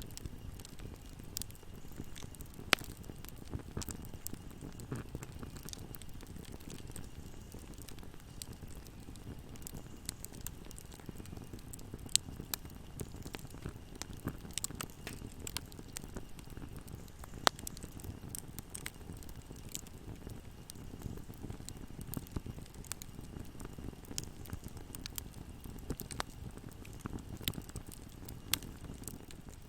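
Fire in a fireplace crackling: a steady low rumble of flames with irregular sharp pops, and a few louder snaps scattered through.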